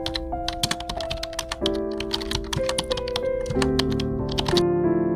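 Soft background music of held notes with a rapid run of sharp clicks over it, like keyboard typing; the clicks stop about four and a half seconds in, leaving the music.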